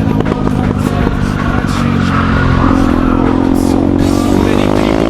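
Motorcycle engine running and revving up, its pitch rising steadily through the second half.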